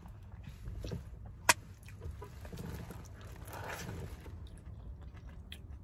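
A person quietly chewing a mouthful of food, with soft mouth noises and a single sharp click about a second and a half in.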